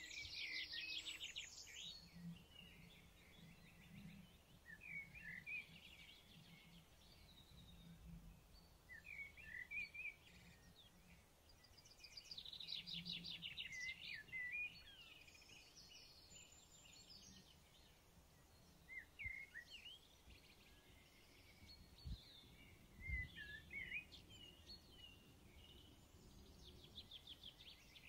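Faint birdsong: small songbirds giving short chirps and rapid trills again and again over a low steady hiss. A couple of soft low thuds come about two-thirds of the way through.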